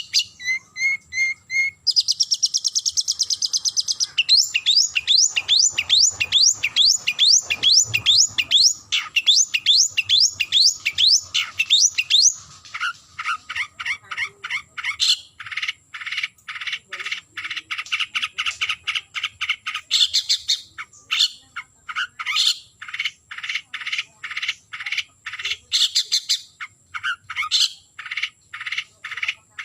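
Long-tailed shrike (cendet) giving its challenge call to a rival. A quick high trill gives way to a long run of fast repeated down-sweeping notes, then to a scratchy chatter of repeated notes, about two or three a second, to the end.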